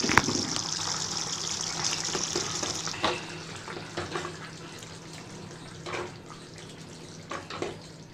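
A steady hiss that stops about three seconds in, then a few light clinks and scrapes of a ladle against a non-stick pan and a glass serving bowl as cooked vegetable curry is served.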